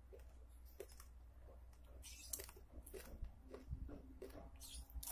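A person chewing and biting food with the mouth close by: faint, irregular crunches and mouth clicks.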